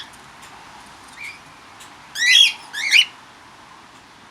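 A bird in an aviary calling: two loud, harsh pitched calls about two and three seconds in, with a fainter call about a second in.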